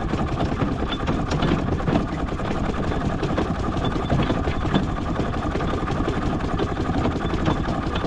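Miniature steam traction engine running slowly in bottom gear: a steady mechanical rumble with many small irregular clicks and knocks.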